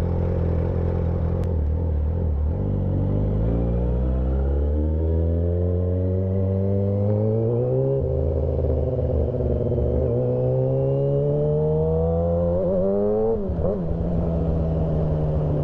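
2008 Yamaha R6's inline-four engine breathing through a full stainless exhaust system and SC Project muffler, rising in revs under acceleration. It shifts up about eight seconds in, pulls again, then eases off after about thirteen seconds and runs steadily.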